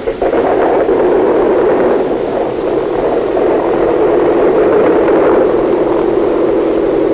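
Piston engines of a Ford Trimotor aircraft running in a steady, loud drone, starting abruptly as the music stops.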